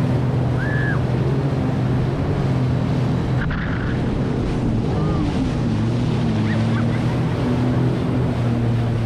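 Sea-Doo jet ski engine running steadily under way on open water, with wind and water rush; its pitch dips briefly and comes back up about five seconds in.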